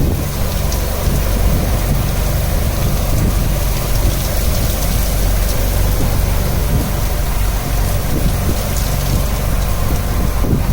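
Rain falling at sea onto a fishing boat, a steady hiss, with the boat's engine running as a low steady hum underneath.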